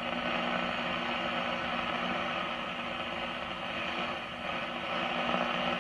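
Hallicrafters S-40B tube shortwave receiver hissing with band static through its speaker while tuned across an empty upper shortwave band, with a steady low hum under the hiss. No station is coming in.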